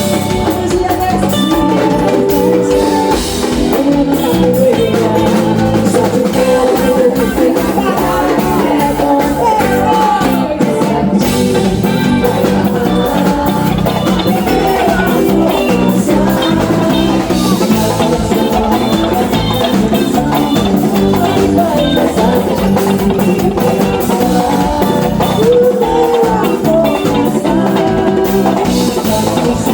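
Band playing upbeat Brazilian axé music, with drum kit and percussion keeping a steady beat under guitar and singing.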